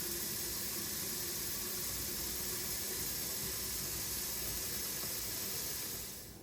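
Tap water running into a humidifier's one-gallon plastic water tank at the sink, a steady hiss that fades out near the end as the flow stops.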